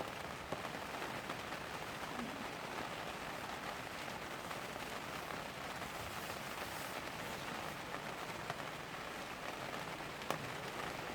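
Steady rain falling on the polytunnel's plastic sheeting, an even hiss with a couple of faint taps.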